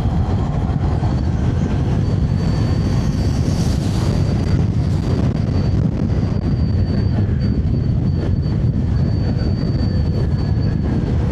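Electric scooter ride in strong wind: a steady low rush of wind buffeting the microphone with road noise. A thin, steady high whine joins about two seconds in.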